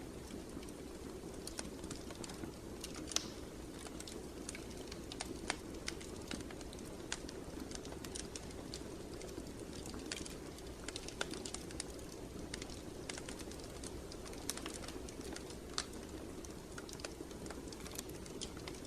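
Wood fire burning in a fireplace: a steady low rush with irregular crackles and sharp pops, a few louder pops scattered through.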